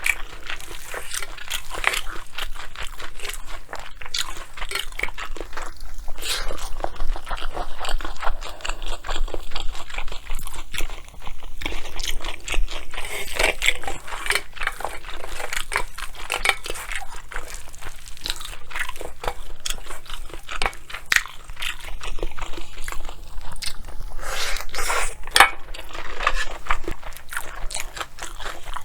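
Close-miked chewing and crunching as mouthfuls of bibimbap with water kimchi are eaten, a dense run of irregular wet clicks and crunches.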